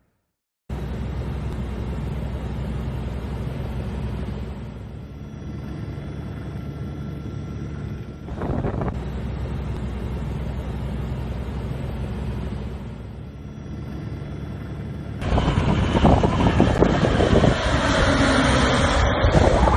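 A steady engine drone with wind noise, changing abruptly twice; in the last few seconds louder, gusty wind buffeting takes over.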